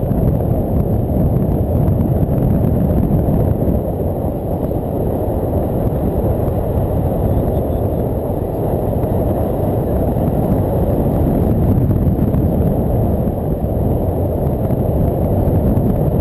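Steady low rumble of wind buffeting the microphone, with no clear pitch.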